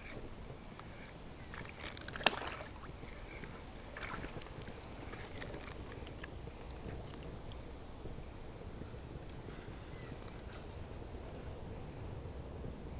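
Water sloshing with a few sharp knocks and clicks about two seconds in, over a steady high drone of insects.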